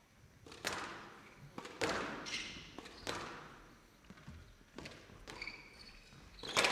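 Squash rally: the ball struck by rackets and smacking off the walls in sharp separate hits about a second apart, with short squeaks of court shoes on the floor in between.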